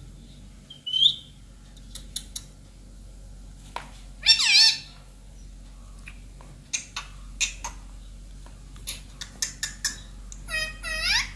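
Indian ringneck parakeet squawking: a short call about a second in, a louder harsh call around four seconds, and two more calls near the end, with scattered sharp clicks in between.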